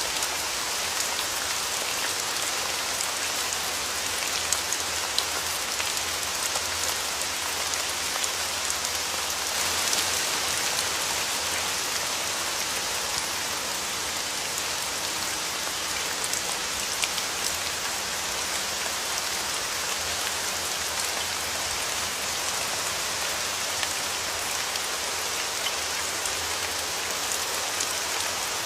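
Steady rain falling, with scattered individual drops ticking sharply through it; it swells briefly heavier about ten seconds in.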